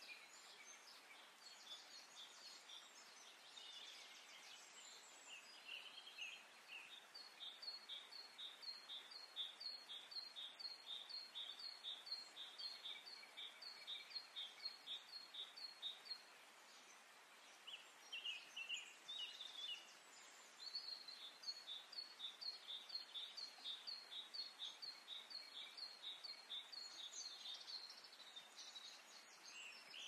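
Faint bird calls: a long run of high, evenly repeated chirps, a gap of a few seconds, then a second run, with scattered chirps in between.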